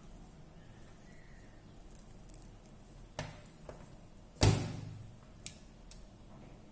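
Small parts or tools being handled and set down on a work surface: a few light clicks and one louder knock about four and a half seconds in that dies away over half a second.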